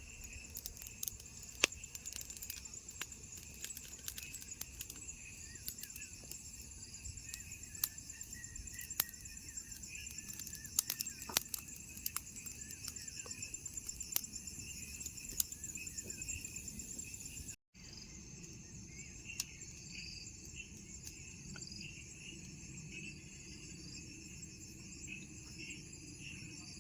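A steady evening chorus of crickets and other insects, several high, pulsing trills layered together, with scattered sharp clicks and pops through the first two-thirds. The sound drops out for an instant about two-thirds of the way through.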